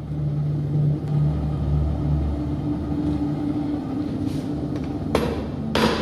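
A steady low drone, with two sharp strikes about half a second apart near the end.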